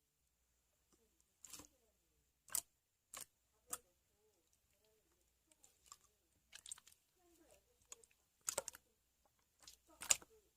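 Slime being squished and pressed by hand, giving short, sharp sticky pops and clicks at irregular intervals, about ten in all, the loudest near the end.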